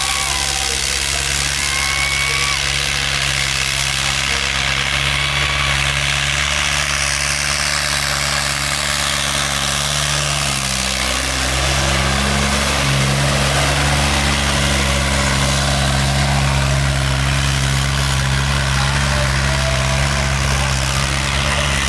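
Tractor diesel engine running steadily. About eleven seconds in its pitch dips briefly, then climbs and holds higher and louder as the engine comes under more throttle.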